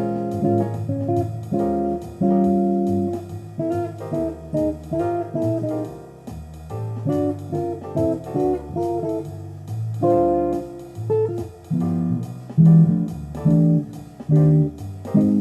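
Guitar music: plucked notes and chords over a bass line, in a jazzy style.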